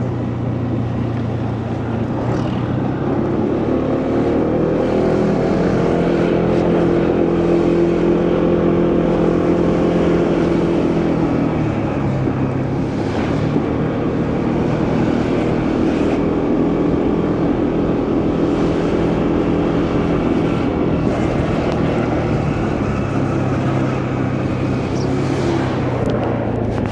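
Motorcycle engine running on the move, with wind and road noise. The engine note climbs, eases off about halfway through, then climbs again and drops near the end as the bike speeds up and slows.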